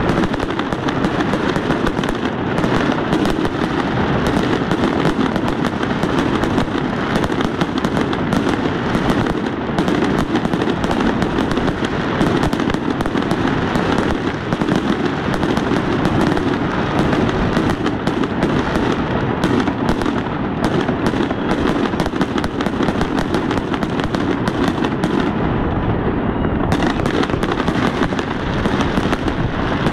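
Fireworks going off at close range: a dense, unbroken run of pops, bangs and crackles, steady in loudness.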